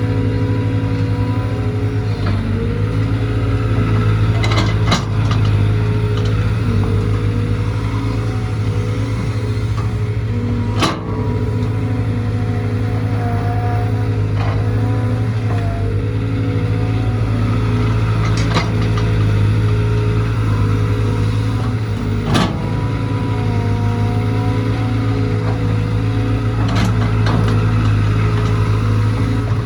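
Caterpillar C4.4 four-cylinder diesel engine of a CAT 320 GC excavator running at a steady speed, with a constant low hum and a steady higher whine. A few sharp clicks or knocks break in now and then, about five times.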